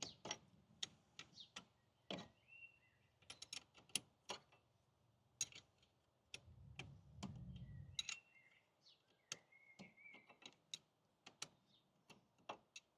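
Ratchet wrench clicking in short irregular runs as a brake caliper slide-pin bolt is wound in.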